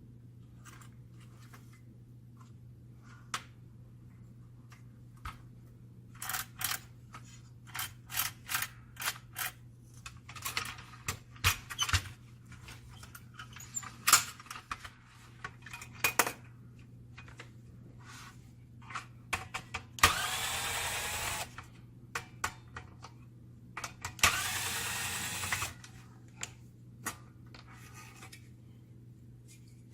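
Copier fuser-unit parts being handled, with scattered clicks and knocks. Then two short whirs of a small handheld power tool, each about a second and a half, the second about four seconds after the first.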